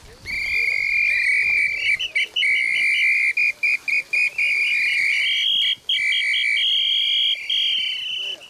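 A handler's dog whistle blown in long held blasts mixed with quick runs of short pips, shifting to a higher pitch about halfway through.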